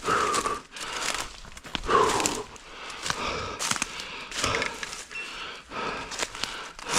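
A runner's footsteps crunching through forest leaf litter and twigs, with heavy, loud breaths, one near the start and another about two seconds in.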